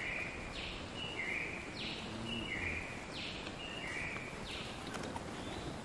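A bird calling over and over, about once every 1.3 seconds, each call a short high note followed by a lower one, over a steady forest background hiss.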